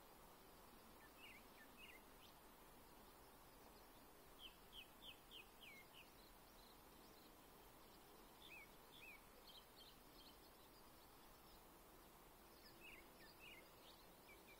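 A songbird singing, faint: four short phrases of quick, high, down-slurred whistled notes with pauses of a few seconds between them, the pattern varying from phrase to phrase, over a steady background hiss.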